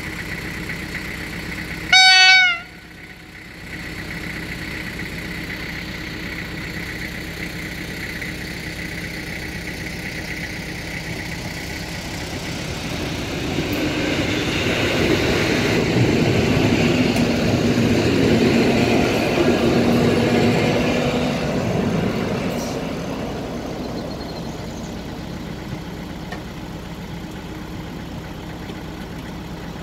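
EN57 electric multiple unit sounding one short horn blast about two seconds in, then passing close by: the rumble of its wheels and motors builds, peaks in the middle and fades away, over a steady background hum.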